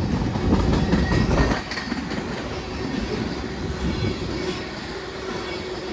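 Freight cars of a long CSX freight train rolling past, with a steady rumble and the wheels clicking over the rail joints. The rumble drops a little about a second and a half in.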